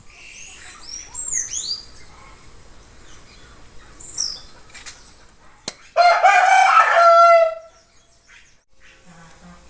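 Small birds giving quick, high sweeping chirps in the first two seconds and again around four seconds in, then a rooster crows once, loud, for about a second and a half from about six seconds in.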